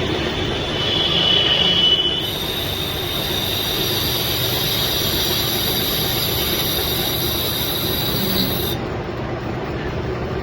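Metal lathe turning a steel workpiece, the cutting tool making a steady high-pitched squeal over the machine's running noise. The squeal brightens about two seconds in and drops back near the end.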